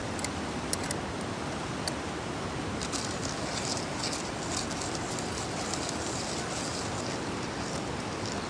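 Wood campfire crackling over a steady hiss, with a thicker run of small pops through the middle.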